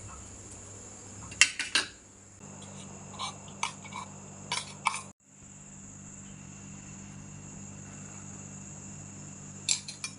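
A steady high-pitched whine over a low hum, broken by three short runs of clinking and clattering like utensils against dishes: the first about a second and a half in, the second around four seconds in, the last near the end.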